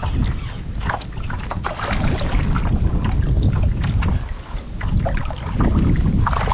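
Wind buffeting the microphone as a heavy, uneven rumble, over water splashing and knocking against a kayak, with scattered short splashes and crackles.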